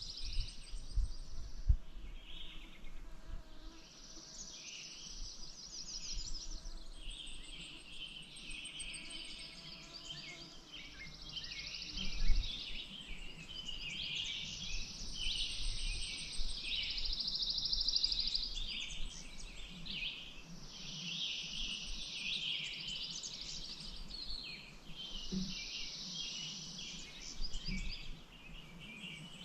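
Songbirds singing together, one repeating a high trilled phrase every few seconds over a steady chatter of chirps. Two low thumps come through, one near the start and a louder one about twelve seconds in.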